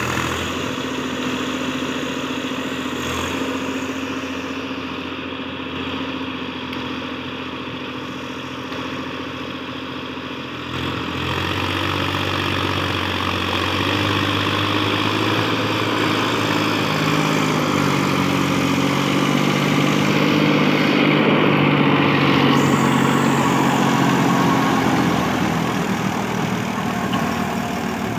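Massey Ferguson 7250 tractor's diesel engine running steadily. About ten seconds in it grows louder and its pitch shifts upward, holding there through the middle before easing off near the end.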